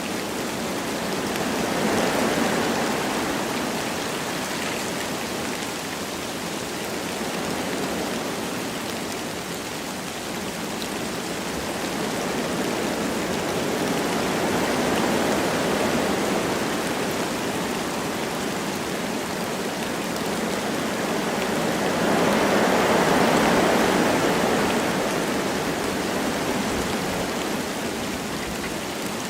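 Wind blowing through forest trees with light rain, a steady rushing that swells and eases in slow gusts, strongest about three-quarters of the way through.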